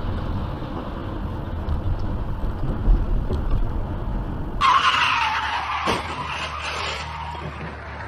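Low vehicle and road rumble, then suddenly, about four and a half seconds in, car tyres skidding with a loud screech that falls in pitch and fades.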